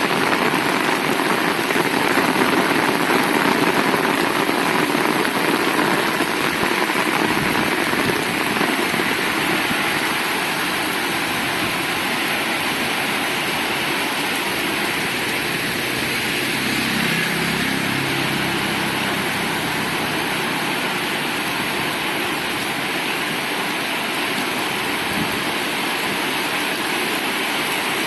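Heavy rain falling steadily. A low engine hum comes in and fades out around the middle.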